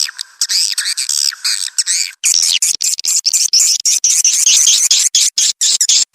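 Recorded edible-nest swiftlet calls: a dense, loud stream of high, rapid chirps and twitters, played as a lure sound for a swiftlet house. About two seconds in, the calls turn choppier, with short gaps between them.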